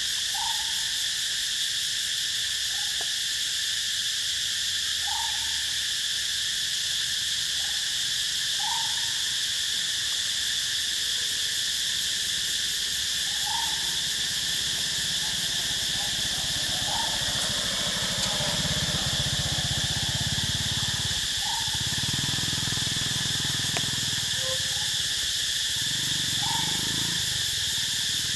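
Steady high insect drone, with a short bird call repeated about every three to four seconds. A low rumble comes and goes in the second half.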